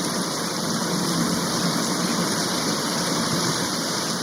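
Steady rain hiss, an even rushing noise with no break.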